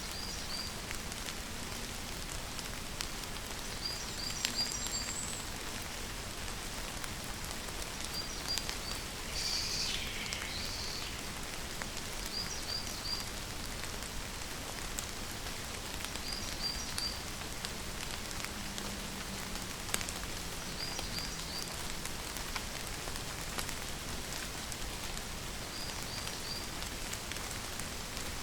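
Steady rain falling, with scattered drops ticking on surfaces. Over it, a high-pitched call of three or four quick chirps repeats about every four seconds, and around a third of the way in one call falls steeply in pitch.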